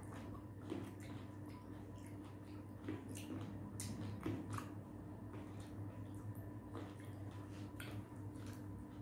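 Two people chewing and biting into green grapes: wet squishing mouth sounds and irregular sharp clicks, over a steady low electrical hum.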